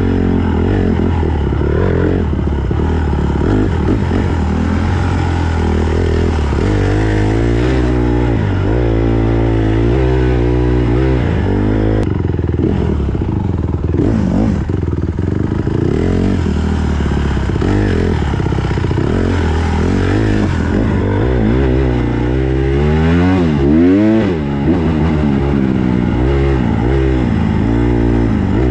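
Small four-stroke single-cylinder dirt bike engine on a trail ride, its pitch rising and falling again and again as the throttle is rolled on and off, with one sharp rev up and back down near the end.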